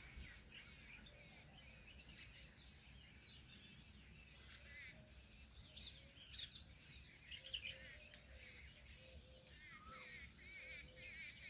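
Faint chorus of small birds chirping and twittering, with a few sharper chirps standing out around the middle and a soft low note repeating underneath in the second half.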